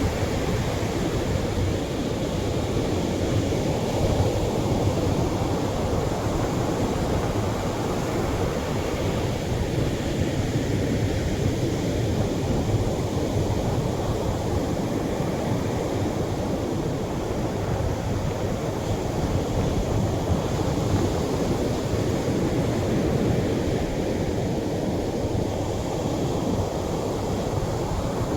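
Ocean surf breaking on the shore: a steady, unbroken rush of waves with no single break standing out.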